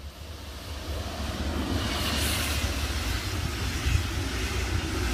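A train approaching and running past, its rumble growing louder over the first second or two and then holding steady.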